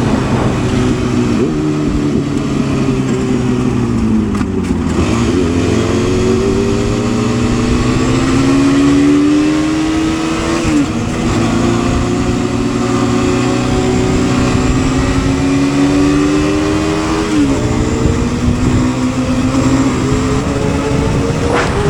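Motorcycle engine under way. The note drops as the bike slows about four seconds in, then climbs steadily under acceleration, dipping sharply at two gear changes, about eleven and seventeen seconds in.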